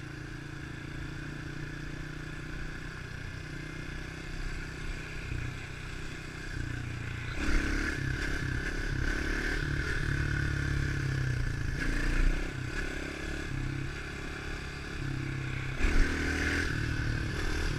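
110cc pit bike engine running as the bike is ridden. The throttle is opened harder about seven and a half seconds in, and the engine pitch rises and falls in steps, with short louder surges later on.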